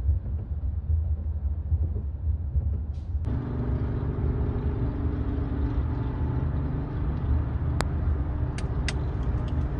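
Car on the move: steady engine and road rumble. About three seconds in, the noise widens and gains a steady hum, and a few sharp ticks come near the end.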